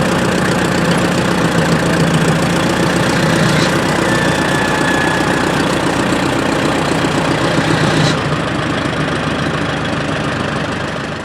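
An engine running steadily, with a steady low hum and a dense wash of noise over it. The sound eases slightly about eight seconds in and cuts off suddenly at the end.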